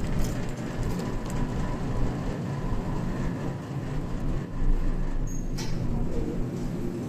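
Steady low vehicle rumble with a noise haze, and a single sharp click about five and a half seconds in.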